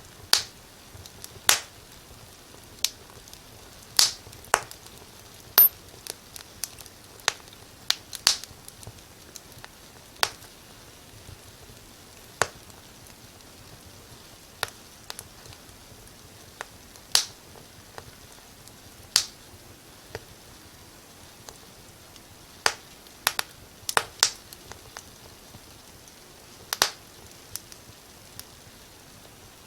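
Wood fire crackling in a fireplace: irregular sharp pops and snaps, a few loud ones every second or two with fainter crackles between, over a low hiss.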